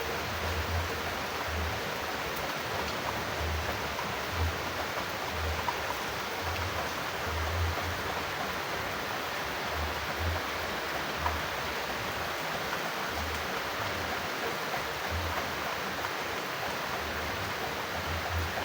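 Steady rain, an even continuous hiss, with irregular soft low thuds underneath.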